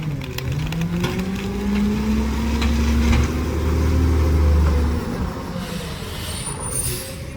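Garbage truck engine revving up over the first two seconds and holding high with a deep rumble, then easing back down about five seconds in.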